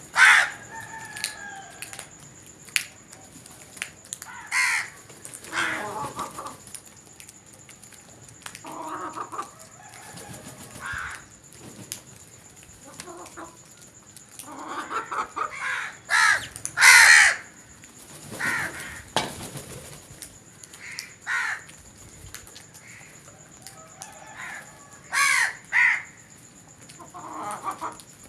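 Birds calling in a string of separate, harsh pitched calls, the loudest in a pair about halfway through, over a faint steady high tone.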